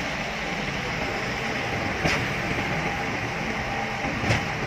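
Concrete mixer truck running at a work site: a steady mechanical noise with a sharp clank twice, about two seconds apart.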